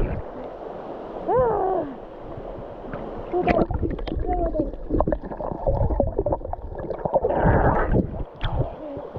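Water splashing and gurgling close to the microphone, with a few short gliding voice calls, the first falling in pitch about a second in.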